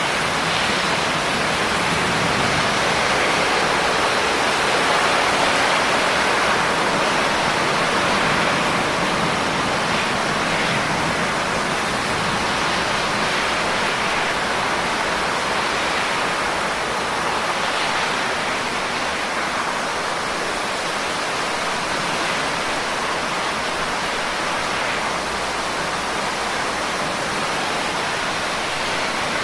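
Steady rain falling, a dense even hiss of raindrops with no individual drops standing out.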